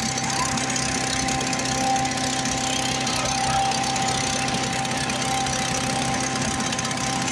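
Predator small gas engine on a wood chipper running steadily at a constant speed.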